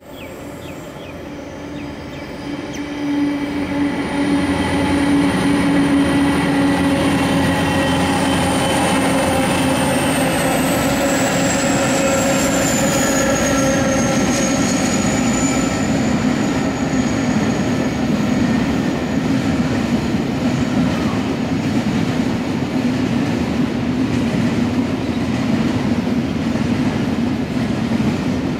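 Three NSW 81 class diesel-electric locomotives hauling a loaded grain train pass by, their engine drone swelling over the first few seconds, followed by the steady rumble and clatter of the loaded hopper wagons rolling past. A thin high squeal from the wheels glides slowly down in pitch about ten to fifteen seconds in.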